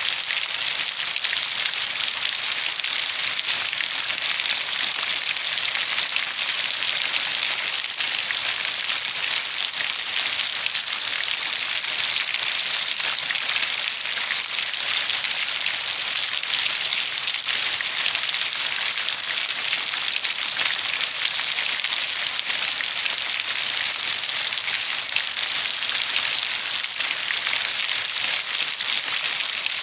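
Steady rain falling on a surface: an even hiss speckled with many fine drop ticks, without change in strength.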